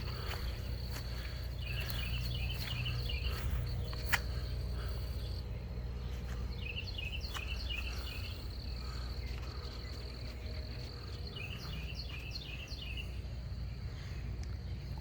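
Outdoor ambience: a steady high insect drone, with three bursts of rapid chirping over a low steady hum. A single sharp click about four seconds in.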